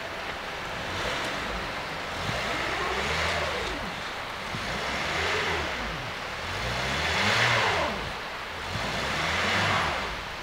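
Car engine revving in five surges about two seconds apart, each rising and falling in pitch, with a rushing hiss of wheels spinning on snow and ice. The car is stuck and the tyres cannot get traction on the slippery surface.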